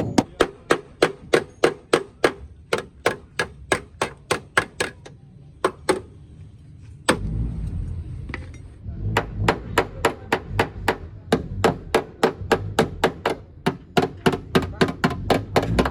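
Hammer blows in quick, even succession, about three to four a second, as in panel-beating the damaged car body. They stop for a couple of seconds about five seconds in, then resume over a low background rumble.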